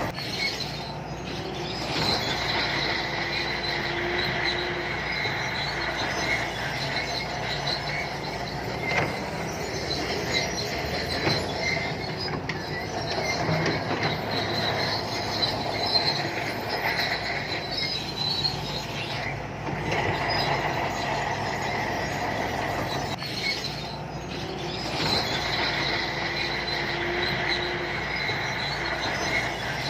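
Shantui crawler bulldozer working: diesel engine running under a steady, high squeal and clank from its steel tracks.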